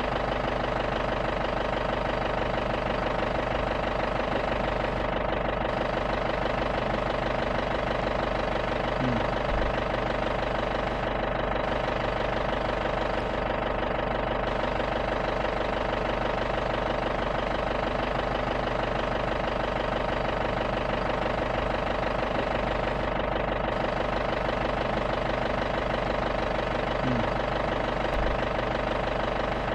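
Safari jeep's engine idling steadily with an even, unchanging hum.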